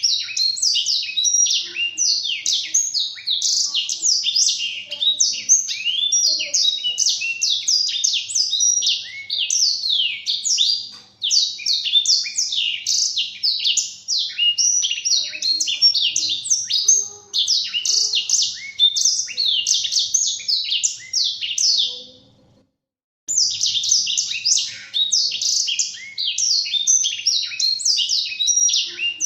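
Blackthroat (black-throated canary) singing a long, fast, unbroken twittering warble of rapid high notes, with a brief break about three-quarters of the way through before the song picks up again.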